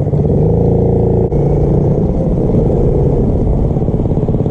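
Small motorbike engine running steadily while riding, with a brief dip a little over a second in.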